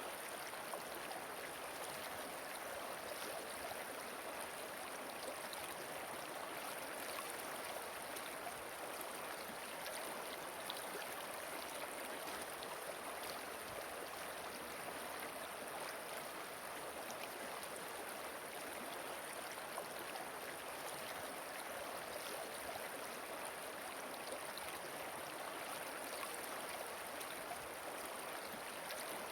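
Flowing river water: a steady, even rush without pause or change.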